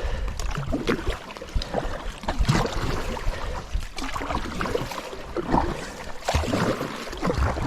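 Kayak paddle strokes splashing hard against a fast, high river current, a stroke every second or two, over a steady rush of water.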